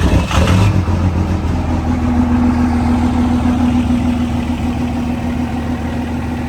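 Vehicle engine catching on a cold start after sitting unused for a long while, loud for about the first second, then settling into a steady idle.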